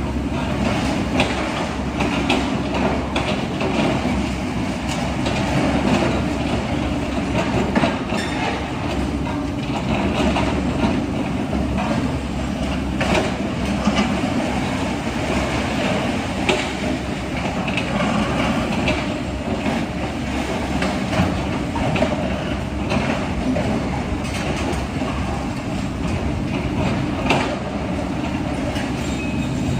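Heavy diesel machinery running steadily, with irregular metallic clanks and knocks throughout, as of an excavator working in mud.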